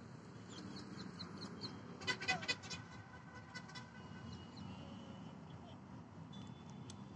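Birds calling: faint high chirps, then a quick run of loud, repeated calls about two seconds in, with thinner calls later.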